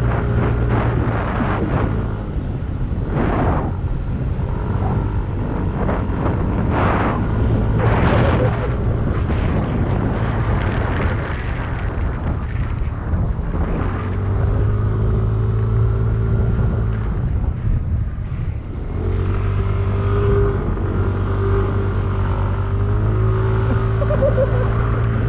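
Yamaha Aerox 155 scooter's single-cylinder engine running while ridden. Rough noisy patches come through in the first third, and the engine note is steadier later on.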